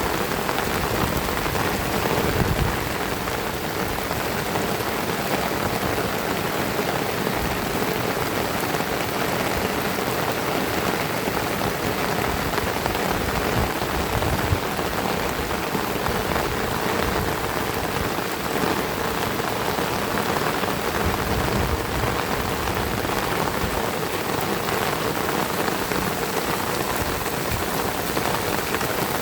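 Heavy rain falling steadily, a dense even patter on the ground and surfaces.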